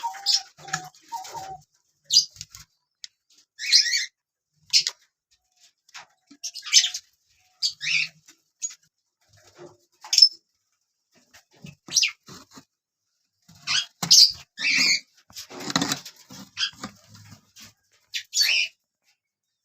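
Small pet parrots giving short, shrill calls and squawks at irregular intervals, some in quick pairs and a busier cluster in the last few seconds.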